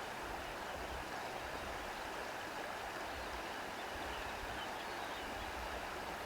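Steady, even rushing of outdoor nature ambience, with a few faint high bird chirps.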